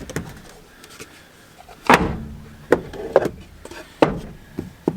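Several separate wooden knocks as pieces of a wax-dipped wooden beehive box are handled and fitted together, the loudest about two seconds in.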